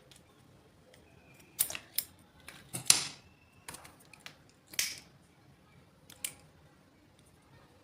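Handling noises of small-scale repair work: about half a dozen sharp clicks and short snips, spaced irregularly, the loudest about three seconds in.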